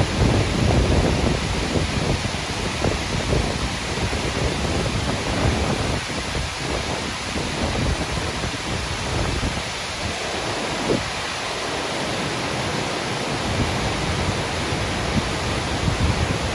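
Dynjandi waterfall rushing: a steady, full wash of falling water, with wind buffeting the microphone in low, uneven gusts.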